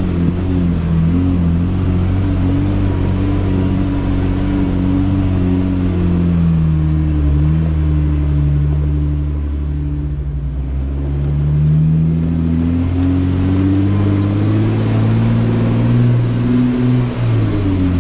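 Jeep Wrangler engine running at low trail speed. Its pitch sinks about halfway through, then climbs again as it pulls.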